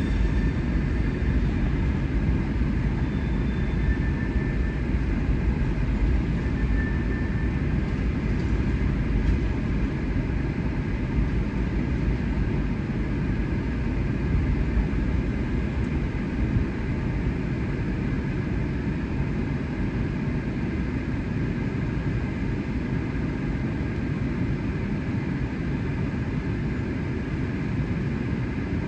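Steady low rumble of a CSX freight train going by, heard from inside a car.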